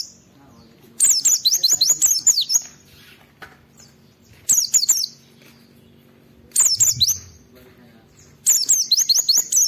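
A white-eye (pleci) singing in four short bursts of rapid, high twittering notes that glide up and down, with pauses of a second or two between phrases.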